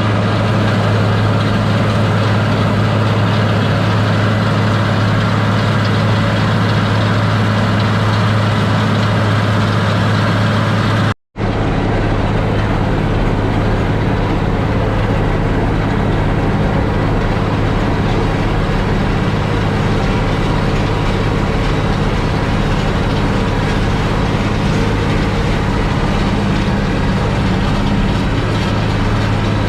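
International 1086 tractor's turbocharged six-cylinder diesel running steadily under load while pulling a New Holland 488 mower-conditioner through hay, heard from inside the cab as a loud, even hum. The sound drops out for a moment about eleven seconds in, where the recording cuts.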